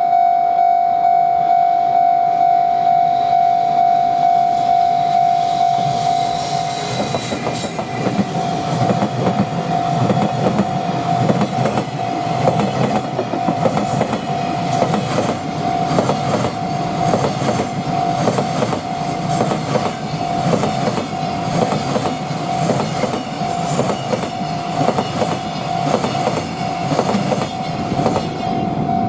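Freight train passing at speed, its wheels clacking over the rail joints with a dense run of clicks over a low rumble, arriving about six seconds in. A steady pulsing warning tone sounds throughout.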